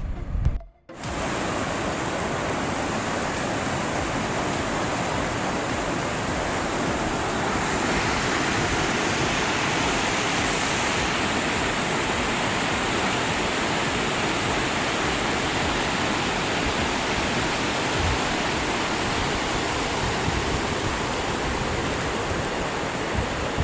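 Steady, even rushing noise, like running water, that sets in abruptly after a brief dropout about a second in and holds without change.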